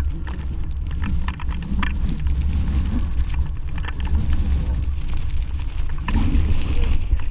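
Wind buffeting the microphone in a steady low rumble, with irregular crunching clicks of footsteps in snow.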